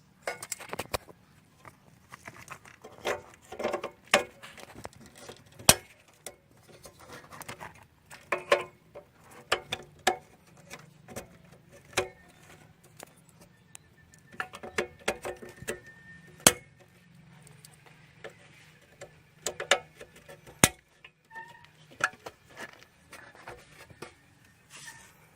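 Irregular clinks, clicks and knocks of hard objects being handled, some in quick clusters with a short ring, over a faint steady hum.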